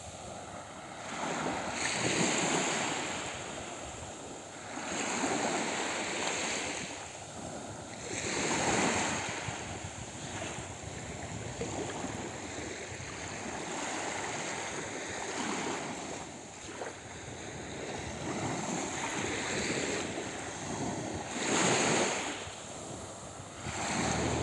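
Sea waves washing ashore, with the noise rising and falling in swells every few seconds, and wind on the microphone.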